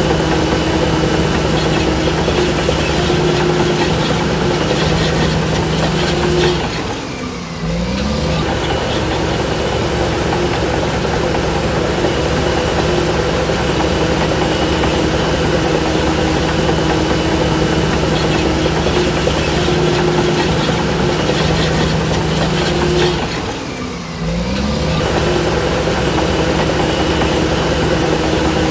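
Diesel engine of a Shantui DH17C3 bulldozer running steadily at working revs. Twice, about seven seconds in and again near twenty-four seconds, its pitch and loudness drop briefly and then climb back up.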